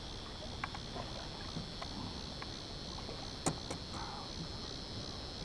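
Steady high-pitched insect drone with scattered light clicks and knocks; a sharper knock comes about three and a half seconds in.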